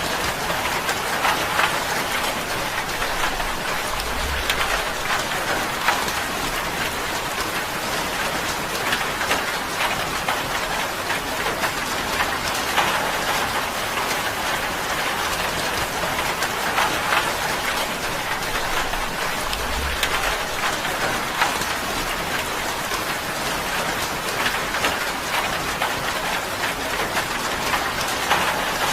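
Steady rain drumming on a tin roof, a dense patter with many sharper individual drop strikes. A faint low thud comes twice, about four and a half seconds in and again near twenty seconds.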